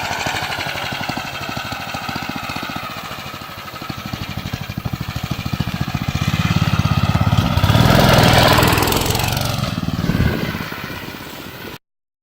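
Small engine of a homemade dirt bike running, its firing rhythm steady at first and then growing louder to a peak about eight seconds in before dropping away. The sound cuts off abruptly just before the end.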